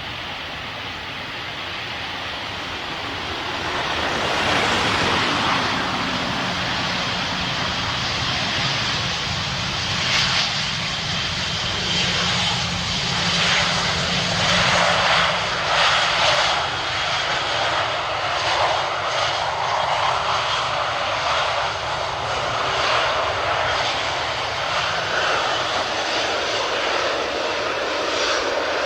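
Airliner engines running loud as a fixed-wing aircraft moves at the airport: a broad roar that builds over the first four seconds and then holds steady.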